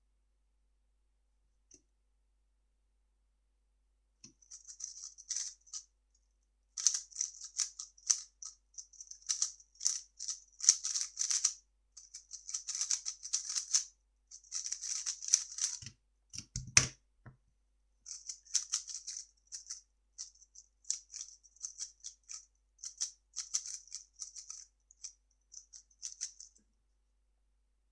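A 3x3 speedcube's plastic layers being turned fast, a clicking rattle in quick bursts of a second or two with brief pauses. A single thump comes about 17 seconds in.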